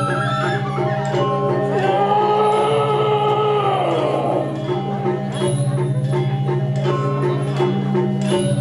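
Traditional Balinese gamelan music playing steadily, its pitched notes repeating in a regular rhythm, with a voice holding a long sung note about two seconds in.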